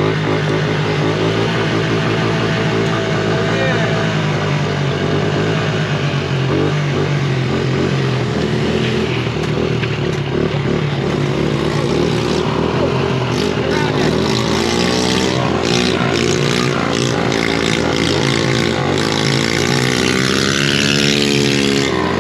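Small single-cylinder pit bike engines running while riding, the revs rising and falling repeatedly as the throttle is worked, more swings in pitch in the second half.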